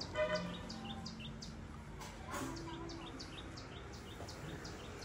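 A bird calling with a rapid, even series of short high chirps, about three a second, running on steadily.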